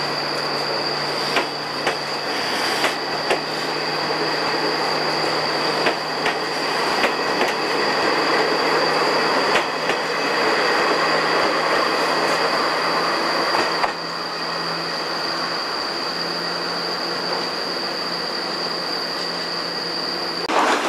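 A JNR Series 50 passenger coach running over jointed track, heard from its open deck. A steady rolling rumble carries irregular sharp clicks from the rail joints, with a steady high whine over it that stops near the end.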